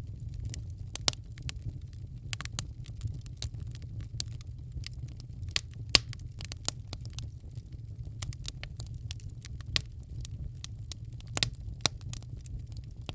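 Wood fire crackling in a fireplace: irregular sharp pops and snaps, a few loud ones standing out, over a steady low rumble.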